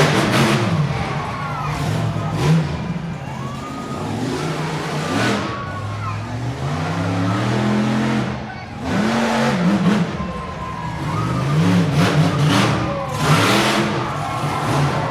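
Monster truck engine revving hard, its pitch repeatedly climbing and dropping in quick surges over a loud, rough exhaust noise.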